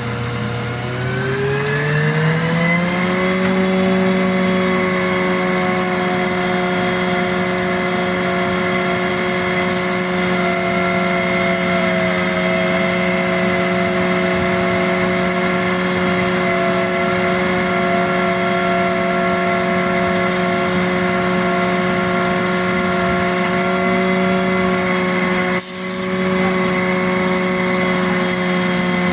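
An engine revs up over the first few seconds, then runs steadily at high revs, with a brief dip near the end.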